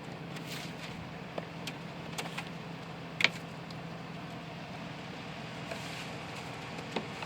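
Ice being knocked and scraped off a vehicle's windshield wiper blades: a scattering of sharp taps and scrapes, the loudest about three seconds in, over a steady low hum.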